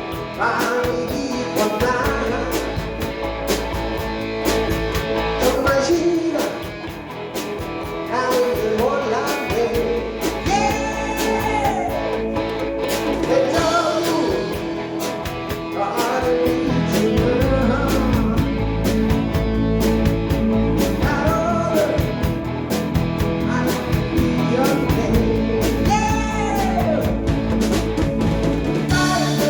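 A rock band playing with a singing voice over electric guitars, bass and drums.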